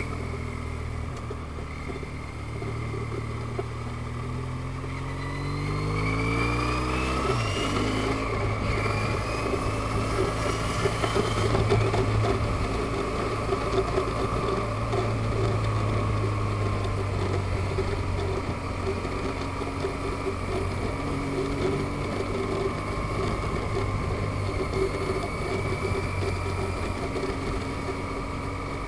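Motorcycle engine pulling up through the revs, then dropping suddenly with a gear change about seven seconds in, and after that running steadily at cruising speed.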